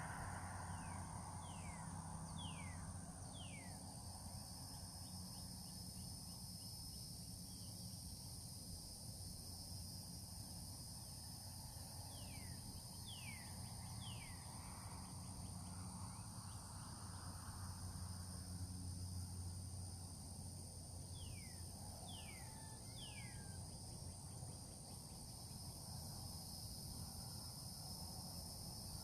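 Steady high-pitched drone of crickets or other insects, with a bird calling in short runs of three or four quick falling whistled notes that come back about every nine seconds, over a faint low rumble.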